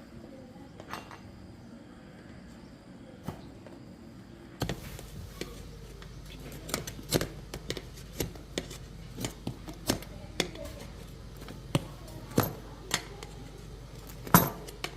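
Metal hand tools and bicycle parts clinking and knocking together in irregular sharp clicks. The clicks are sparse at first and come more often after about five seconds, with the loudest knock near the end.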